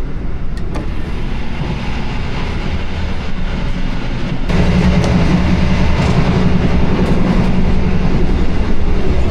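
Running noise of a moving passenger train heard from on board: a steady rumble of wheels on the rails with clickety-clack. About halfway through it suddenly gets louder and brighter and stays that way.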